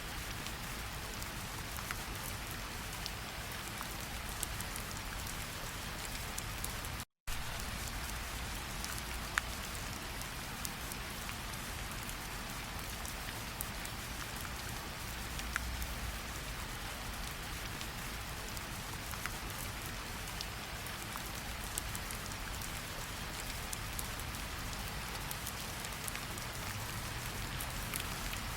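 Steady rain falling, an even hiss with scattered sharper drop ticks. The sound cuts out completely for a split second a little after seven seconds in, then resumes.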